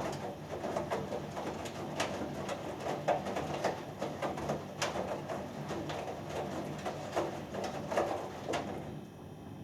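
Hoover Dynamic Next front-loading washing machine in its main wash: the drum tumbles the wet laundry, which sloshes and splashes irregularly over a steady motor hum. The tumbling stops near the end as the drum pauses.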